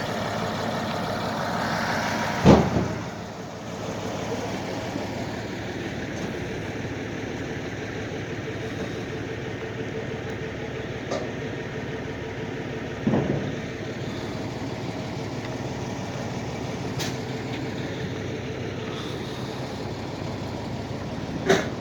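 Heavy engine idling steadily, with three short knocks or thumps: a loud one about two seconds in, one around the middle and one at the very end.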